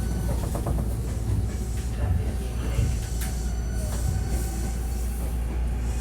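Hankyu 1300 series electric commuter train heard from inside the car as it slows into a station: a steady low running rumble with a faint motor whine that shifts in pitch partway through.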